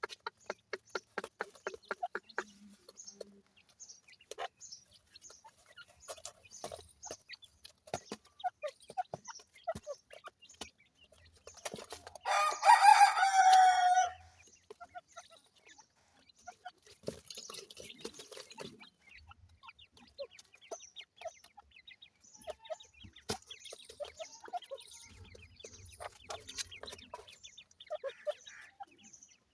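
Grey francolin chicks cheeping in short, scattered calls with small ticks among them, and a rapid run of ticks at the start. About twelve seconds in, one loud crow-like call lasts about two seconds.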